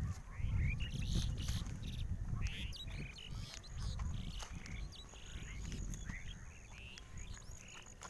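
Small birds chirping, many short calls one after another, over a loud, uneven low rumble on the microphone.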